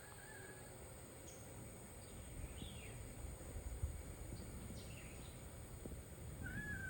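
Faint bird calls: a short whistled note at the start, quick downward chirps twice, and a longer wavering whistle near the end, over a low steady rumble.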